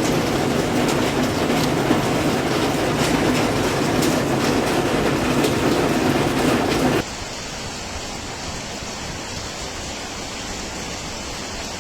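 Fast-flowing floodwater rushing in a steady, dense roar; about seven seconds in, it cuts to a quieter, even rushing.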